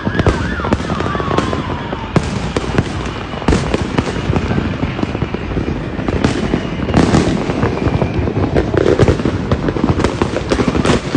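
Fireworks and firecrackers going off continuously: a dense crackle of many small bangs, with louder booms standing out now and then. In the first two seconds a whistling firework falls in pitch.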